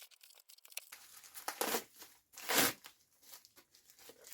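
Packaging crinkling and tearing as a parcel is unwrapped, in a few uneven rustling bursts, the loudest about two and a half seconds in.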